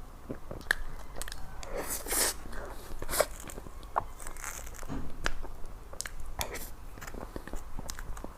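A person eating close to the microphone: bites and chewing, heard as a string of short, irregular clicks and crunchy bursts.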